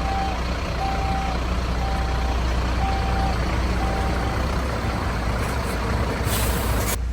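A truck's reversing alarm beeping about once a second over its low running engine; the beeps stop about four and a half seconds in, and a short hiss follows near the end.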